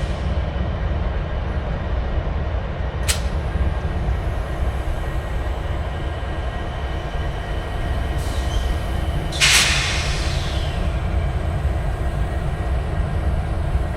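Stopped train idling with a steady low rumble while held at a signal. A short hiss of air sounds about three seconds in, and a longer, louder air hiss about nine and a half seconds in.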